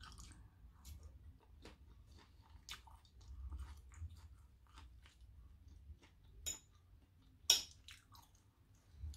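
A person chewing currywurst and chips, with soft wet mouth sounds and scattered short clicks; the sharpest click comes about seven and a half seconds in.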